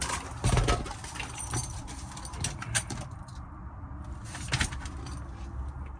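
A string of light sharp clicks and rattles from handling, over a low steady rumble. The clicks bunch in the first few seconds and again a little past the middle.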